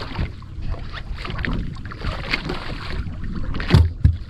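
Wind rumbling on the microphone in an open boat, with scattered small knocks and two heavier thumps a little before the end.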